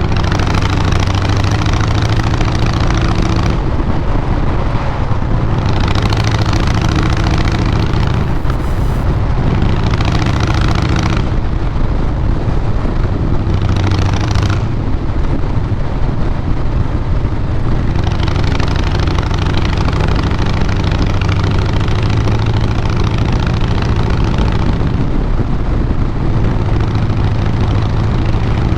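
Harley-Davidson Fat Boy Lo's Twin Cam 96B V-twin running through a Vance & Hines Big Radius 2-into-2 exhaust, with a deep, steady exhaust note. A hissing rush over it drops away and comes back several times.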